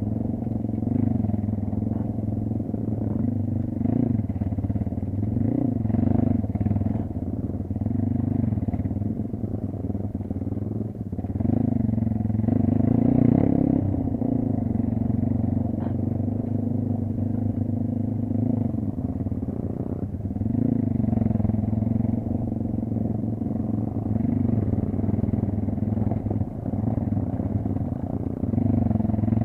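Kayo dirt bike engine running under way, the throttle opening and closing so the engine note swells and drops every few seconds.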